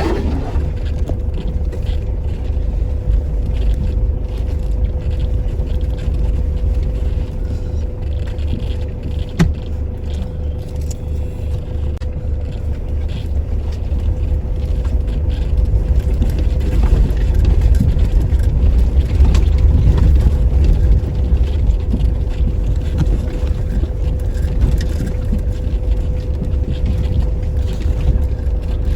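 Toyota Hilux pickup driving slowly over a rough, muddy track: a steady low rumble with a faint constant whine, a single knock about nine seconds in, and the rumble growing a little louder midway.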